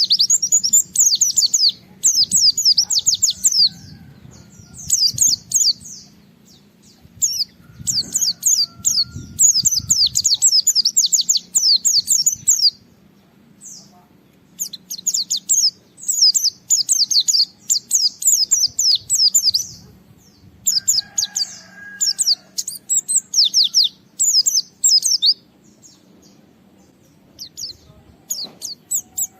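White-eye (pleci) singing an excited, rival-challenging full song: rapid, high-pitched twittering phrases lasting one to three seconds, with short pauses between them. A brief lower whistled call comes about two-thirds of the way in, and a faint steady low hum runs underneath.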